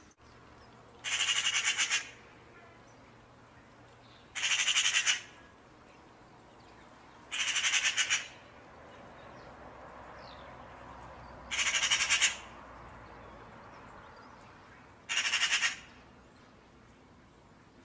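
A bird's harsh squawking call, about a second long, repeated five times at even intervals of three to four seconds.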